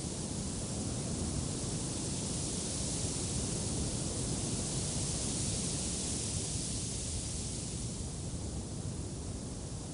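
Wind blowing, a steady rushing noise with a low rumble, its hiss swelling through the middle and easing off again.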